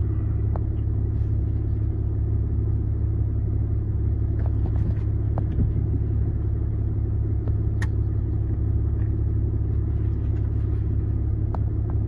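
Car driving at a steady speed, heard from inside the cabin: an even low road-and-engine rumble, with a few faint ticks.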